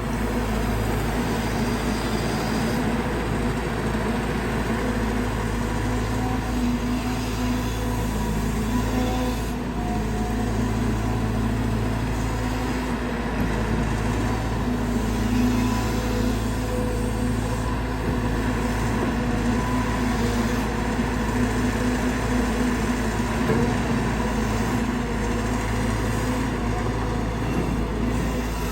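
Caterpillar 320GX excavator's four-cylinder C4.4 diesel engine running steadily under working load, with the hydraulic pump's whine rising and falling as the machine digs.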